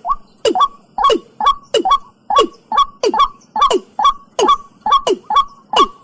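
Watercock calling over and over, a little over two short calls a second, each call a note that falls steeply in pitch.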